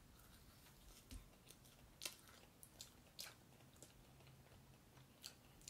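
Faint mouth sounds of two people chewing sugar-coated marshmallow Peeps: a few soft scattered clicks and smacks, the clearest about two, three and five seconds in, over near-silent room tone.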